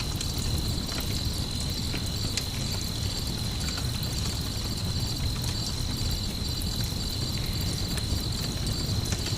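Crickets chirping steadily in a dense high trill, over a low steady rumble, with scattered sharp crackles of a campfire.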